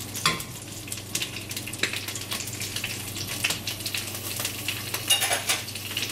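Parsnip strips frying in vegetable oil in a black pan, sizzling with irregular crackles as they begin to brown. A metal spoon clinks against the pan as the pieces are turned at the start, with another sharp metallic clink about five seconds in.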